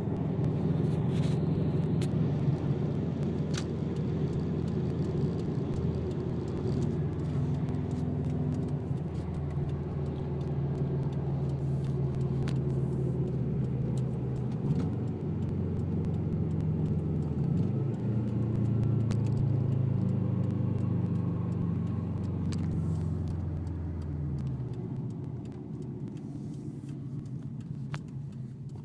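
Turbocharged flat-four engine of a 2005 Subaru WRX running through a catless downpipe and straight-through 3-inch Invidia N1 exhaust with no silencer, heard from inside the car. It pulls steadily with two abrupt changes in pitch partway through, then the note falls away and quietens near the end as the car slows.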